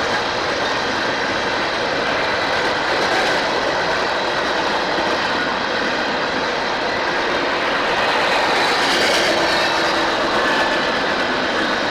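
A train rolling past on the rails: a steady, loud roar of wheels on track, swelling slightly about nine seconds in.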